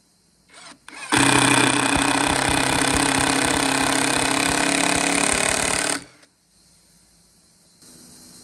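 A woodworking power tool runs loud for about five seconds with a rapid rattling knock, then cuts off suddenly. A quieter steady motor hum starts near the end.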